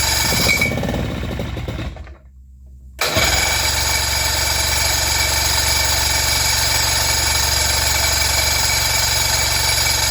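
Pontoon boat's outboard motor running, then dying out about two seconds in. It comes back abruptly a second later and runs steadily, with a carburetor that the owner suspects is gummed up with varnish.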